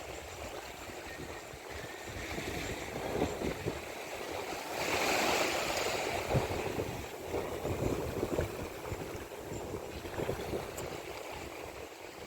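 Sea waves washing on the shore, with one larger surge about five seconds in. Wind buffets the microphone.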